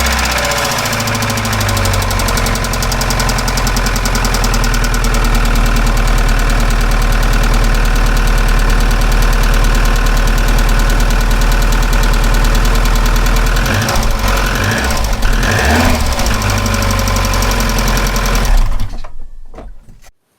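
Opel C20XE 2.0 16-valve four-cylinder running just after a cold start, with a loud, rapid clatter from its hydraulic lifters (lash adjusters) knocking because they have not yet pumped up with oil. The engine is switched off and stops near the end.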